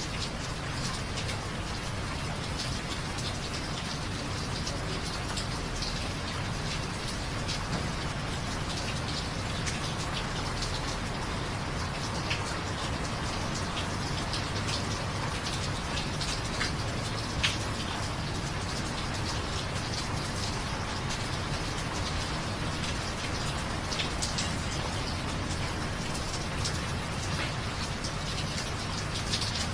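Steady rain falling, with scattered louder individual drops tapping close by; one sharper drop hit about halfway through.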